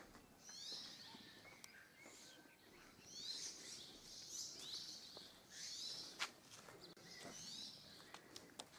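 Faint chirping of small birds: short high calls sweeping downward, repeated every second or so, with a few faint clicks near the end.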